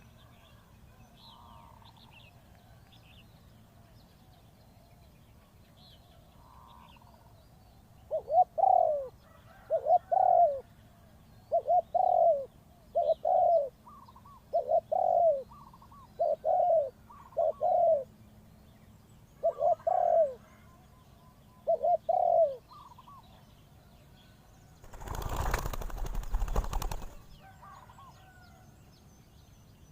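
Spotted dove cooing, about nine short calls repeated every one and a half to two seconds, with faint chirps of small birds behind. Near the end comes a loud two-second rush of noise.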